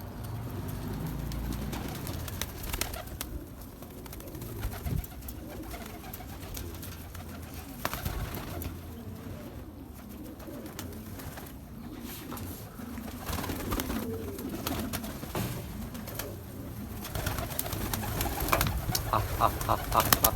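Domestic pigeons cooing, with scattered sharp clicks and a quick run of clicks near the end.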